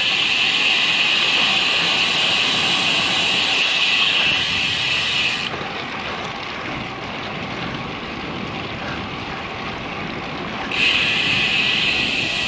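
Wind rushing over a bike-mounted action camera's microphone, with road noise, while riding a road bike. The bright hiss drops away abruptly about five seconds in and comes back near the end.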